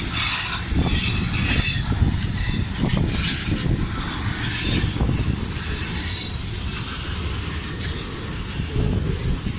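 CSX manifest freight train passing close by: a steady loud rumble of wheels on rail with irregular knocks and clatter, and a high hissing wheel noise over it.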